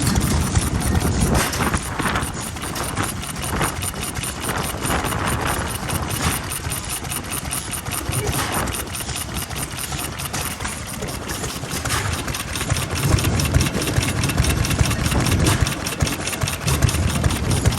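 Old Japanese stationary farm engine (hatsudōki) running steadily, its firing strokes heard as a rapid, even beat.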